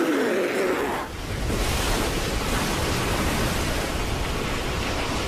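Surf noise of a big wave breaking and pouring over a shallow reef: a dense, steady rushing of whitewater that sets in about a second in and runs on evenly.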